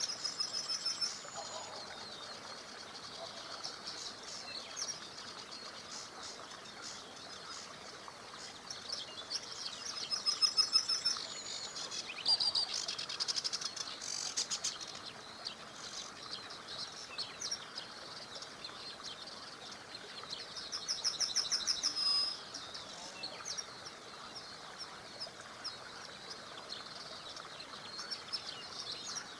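Songbirds singing in repeated high trilling phrases, loudest about ten seconds in and again around twenty-one seconds, over the steady hiss of a small river.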